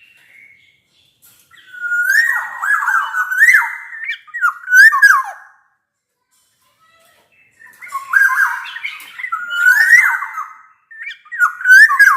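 Black-naped oriole singing loudly: two bouts of swooping, fluty whistled phrases a few seconds each, separated by a pause of about two seconds.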